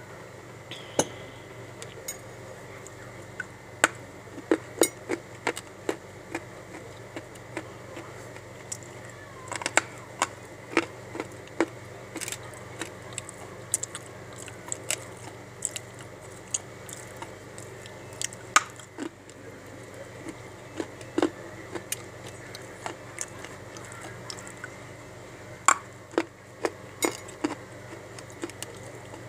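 Crunchy bites and chewing of dry edible earth (clay/soil chunks): many sharp, irregular cracks and crackles, close up, over a steady background hum.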